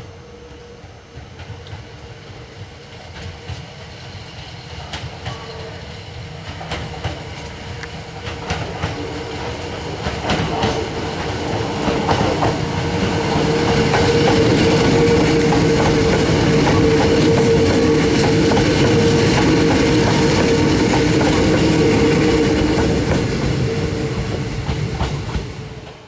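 Hakone Tozan Railway electric train approaching and passing close, growing steadily louder, with wheels clicking over the rail joints and a steady hum. The sound cuts off suddenly near the end.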